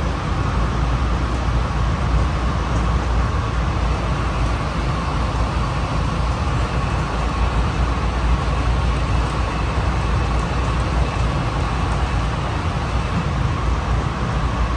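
Interior running noise of a Honolulu Skyline metro car moving at steady speed between stations: a steady low rumble of wheels on rail with a faint steady high whine over it.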